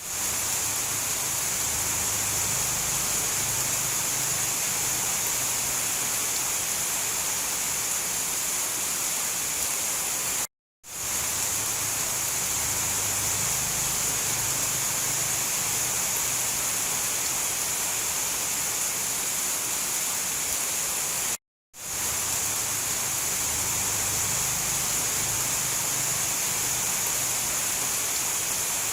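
Steady heavy rain, an even hiss with no thunder, played as a loop of about eleven seconds that cuts to silence for a split second twice.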